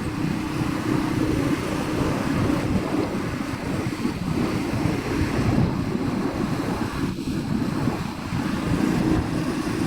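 Wind buffeting the microphone on a moving motorcycle, a steady gusty rumble with the motorcycle engine running underneath.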